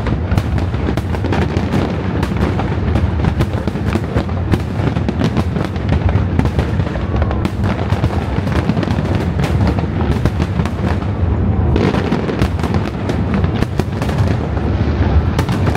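Fireworks display going off without a break: a dense run of overlapping bangs and crackles over a steady low rumble.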